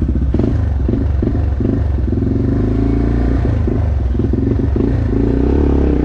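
Dirt bike engine running, the throttle opened and closed in quick uneven bursts as the bike is ridden over rough trail.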